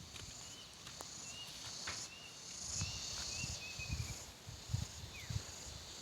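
Insects trilling steadily in a high band over a rice field, with a run of short high chirps in the first half. Soft footsteps thud on the earth dyke about twice a second from about halfway in.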